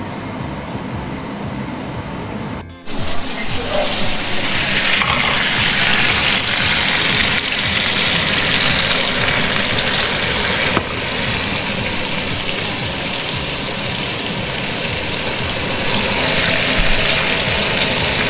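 Potato wedges and carrots sizzling in a frying pan: a steady, loud hiss that starts abruptly about three seconds in.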